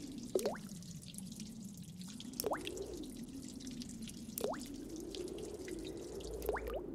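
Water-drip sound effect: four short plinks, each rising quickly in pitch, about two seconds apart, over a faint low tone that slowly wavers up and down.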